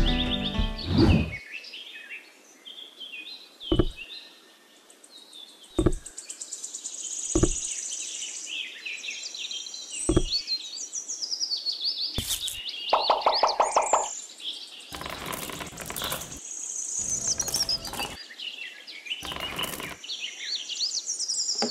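Small birds chirping and singing throughout, with a few light knocks in the first half, about two seconds apart, as miniature pieces are set down, and several short clattering sounds in the second half.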